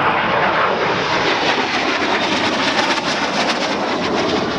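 AV-8B Harrier's Pegasus jet engine running loud and steady, its thrust nozzles turned downward as the jet slows into the hover, with a rough crackle through the middle.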